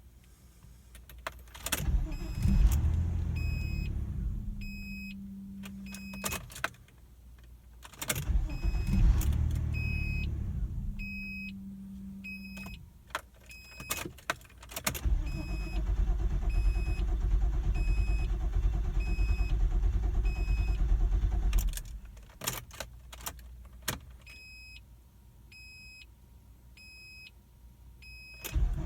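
A 1999 Nissan Maxima's engine is started again and again without staying running. Twice it fires with a loud burst and dies away within a few seconds, then it runs steadily for several seconds before cutting off abruptly. A warning chime beeps in a steady repeating pattern throughout. The no-start comes from the NATS immobilizer, which has lost the transponder keys from the engine computer.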